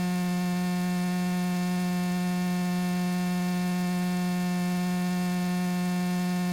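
Steady hum in the Cessna 172S's headset audio feed during the climb: one low pitch with a ladder of overtones, holding perfectly even.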